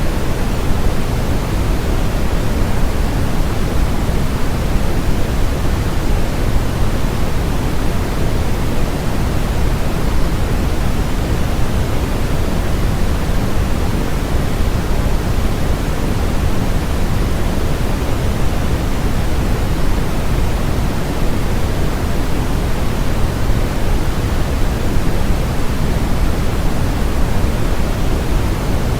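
Steady generated white noise: an even, unbroken hiss, fuller in the low end than in the highs.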